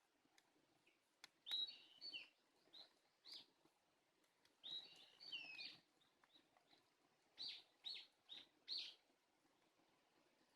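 A bird calling in high-pitched bursts: a few tangled phrases in the first half, then four short calls in quick succession near the end.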